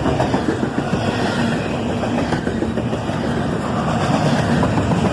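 CSX double-stack intermodal freight train rolling past, with a steady, dense rumble of wheels on rail and a faint engine hum.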